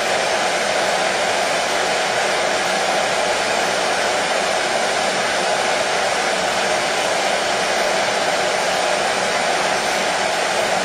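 Hair dryer running steadily, an even, unchanging whoosh of air and motor.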